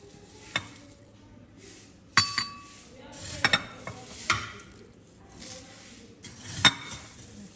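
Kitchenware being handled: several sharp clinks and some scraping, the loudest clink near the end.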